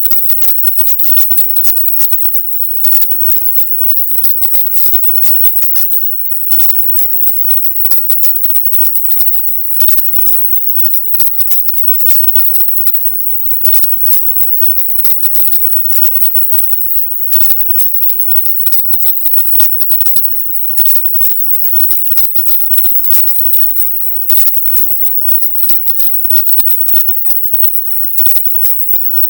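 A 'silent subliminal' audio track: harsh, crackling static with a high-pitched hiss at the top of hearing, cutting out briefly every three to four seconds.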